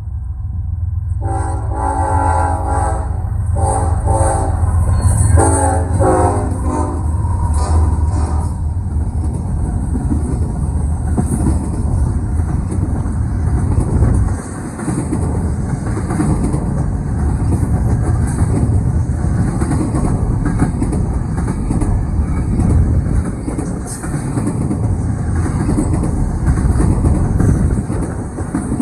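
Diesel locomotive horn on a CN freight train sounding about four blasts in the first eight seconds or so. After that the train rolls past with a steady heavy rumble and the rapid clatter of wheels over the rail joints.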